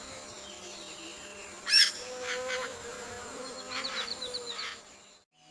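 Forest ambience: a steady insect buzz, with a sharp bird call about two seconds in and a quick run of short chirps about four seconds in, fading out near the end.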